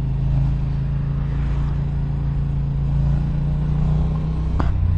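Yamaha R7's CP2 689 cc parallel-twin running steadily through an Akrapovic exhaust line.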